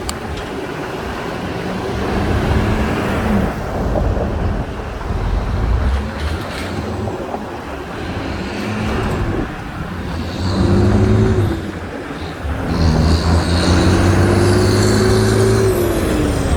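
Road traffic: motor vehicles passing close by, their engines rising and falling in pitch, over a steady noise of tyres and road. It is loudest in the second half, where several engines overlap.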